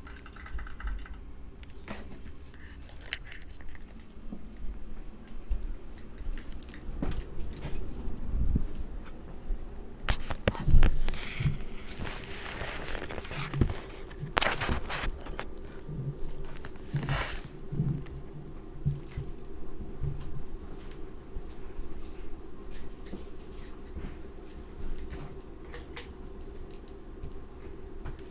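Irregular clicks, knocks and scraping rustles over a faint steady hum, with the sharpest knock about eleven seconds in and a longer rustle just after it.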